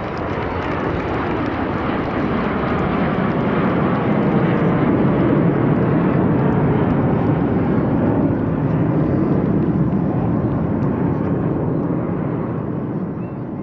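Dassault/Dornier Alpha Jet jet trainers flying past with a loud jet roar that builds, holds strongest through the middle and fades near the end.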